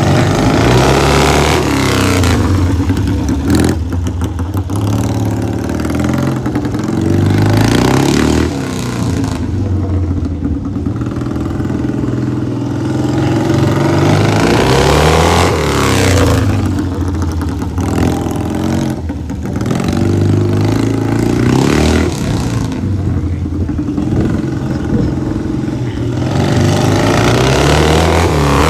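Motorcycle engine running and being revved again and again, its pitch climbing and falling back every few seconds, with a lower steady running note between the blips.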